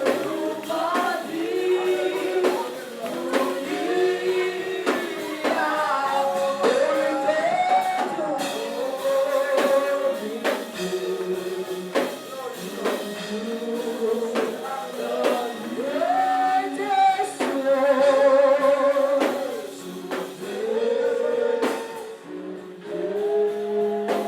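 Congregation singing a gospel song together, with voices held in steady sung lines over an evenly struck percussion beat.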